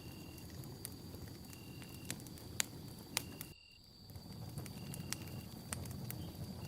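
Campfire crackling: scattered sharp pops and snaps over a low steady rush of burning wood, with a faint steady high tone behind. The sound drops out briefly about halfway through.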